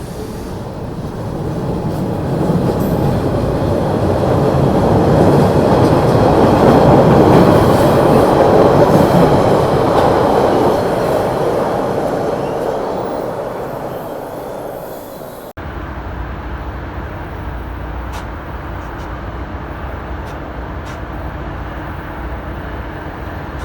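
A train passing, its rumble swelling to a peak about seven seconds in and then fading away. About two-thirds of the way through, the sound cuts off abruptly to a steadier, quieter rumble with a few clicks.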